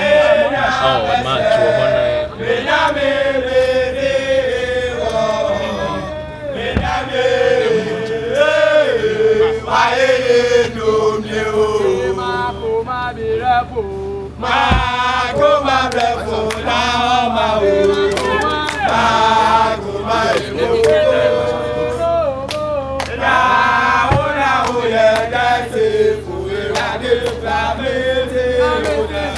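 Voices singing a chant-like song with a held, gliding melody line and brief breaks between phrases.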